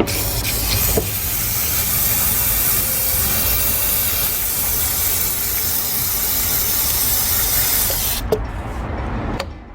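Aerosol throttle-body cleaner sprayed in one long, continuous hiss to clean carbon deposits from the throttle body. The spray stops suddenly a little over eight seconds in.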